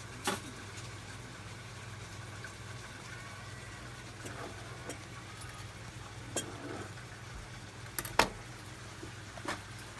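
A handful of sharp, separate knocks, loudest about eight seconds in, from a kitchen knife hitting a cutting board while a lime is cut. A steady low hum runs underneath.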